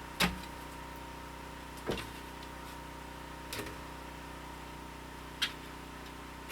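Steady low hum with a thin high whine, broken by four short clicks at an even spacing of a little under two seconds.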